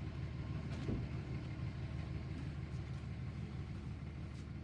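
Truck engine running steadily with a low rumble, with a single light knock about a second in.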